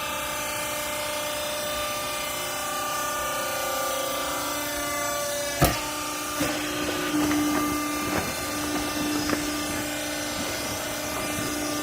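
Hydraulic press baler running with a steady whine made of several held tones. A single sharp bang comes about five and a half seconds in, followed by a few seconds of irregular knocks and clatter.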